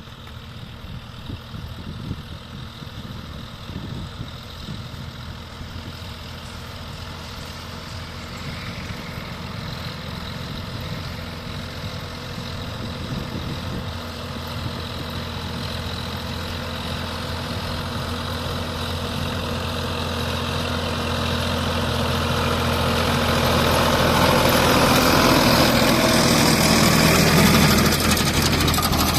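Sonalika 745 tractor's diesel engine running steadily while it pulls a reversible plough, growing gradually louder as it comes closer, loudest near the end.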